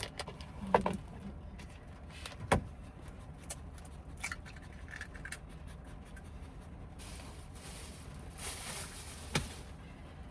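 Scattered knocks and light clatter of things being handled, with a louder knock about two and a half seconds in and another near the end, and a rustling hiss shortly before it.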